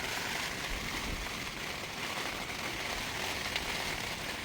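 Steady rain falling, an even continuous hiss with no distinct events.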